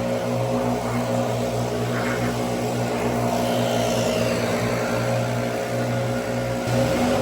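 Lawn mower's small petrol engine running steadily, a little louder near the end.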